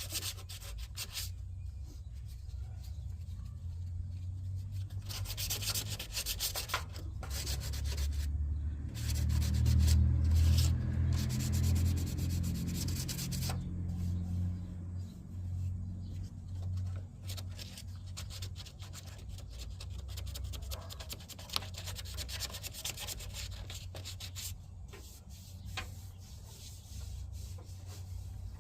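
Sandpaper rubbing over cured body filler in uneven strokes with short pauses, smoothing ridges over covered welds and holes. A low rumble swells under it in the middle, loudest about ten seconds in.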